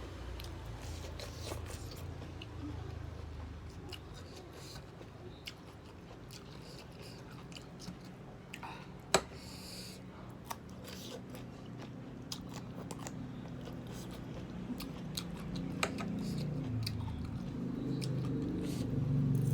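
Close-up eating sounds of someone chewing soft jajangmyeon noodles: wet smacks and small mouth clicks scattered throughout. A low hum underneath grows louder near the end.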